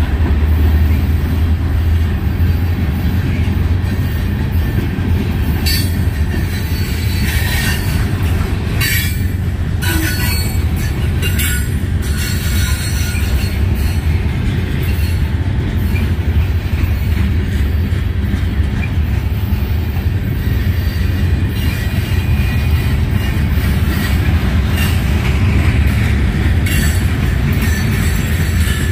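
Freight train cars rolling past on the rails, a steady low rolling noise with brief high wheel squeals and clanks now and then, most of them in the first half.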